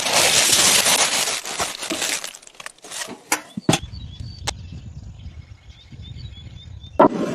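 Food hitting a hot pan with a loud sizzle that fades after about two seconds, followed by several sharp clicks and knocks and a quieter low crackle.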